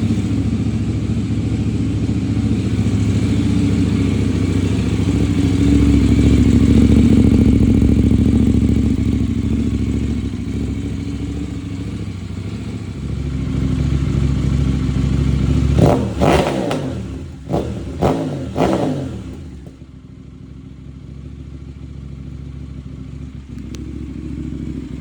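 KTM 990 RC R's parallel-twin engine running through a homemade exhaust pieced from a wrecked Hotbodies RS660 system, idling and swelling slightly. A little past halfway it is blipped three times in quick succession, each rev rising and dropping fast, then it settles to a quieter idle.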